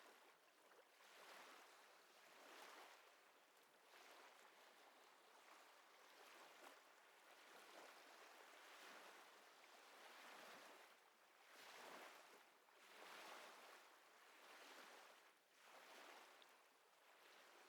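Faint ocean waves washing in, a soft surf hiss that swells and fades every second or two.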